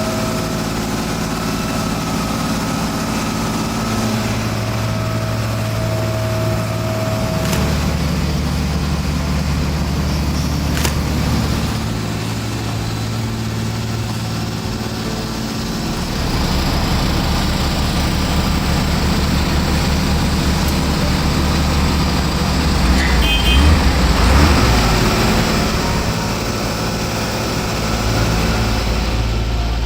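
Heavy vehicle or machinery engines running steadily, their low hum shifting in pitch several times, with a louder rattling stretch a little after halfway.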